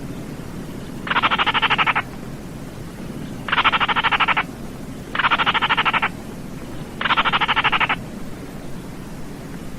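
Baillon's crake giving its dry, frog-like rattling call: four rapid pulsed trills, each just under a second long and about 1.5 to 2 seconds apart, over a steady low background hiss.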